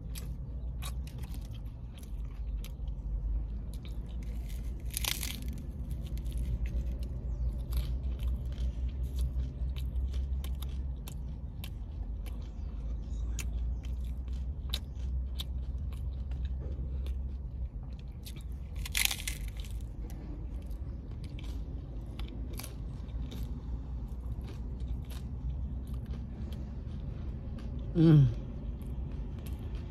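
Crunching and chewing of a hard-shell corn taco: many small crisp crackles over a steady low hum. A short vocal 'mm' comes near the end.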